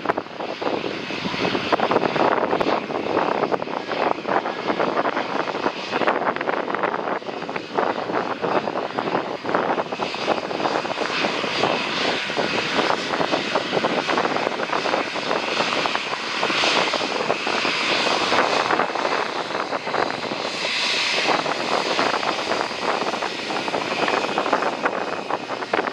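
Jet airliner engines on landing approach: a steady rushing roar, with a higher whine coming through more strongly from about halfway in.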